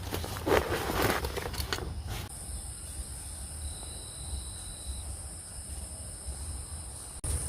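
A few seconds of rustling, crunching steps on the forest floor. Then a steady high-pitched insect drone, with a brief thin higher note in the middle.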